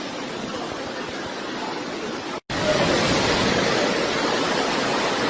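Rushing floodwater, a steady noisy rush; it cuts out for an instant about two and a half seconds in and comes back louder.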